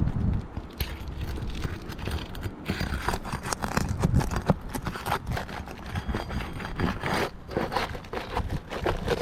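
Roof shingles being pried and worked loose: irregular scraping and crackling with many small knocks.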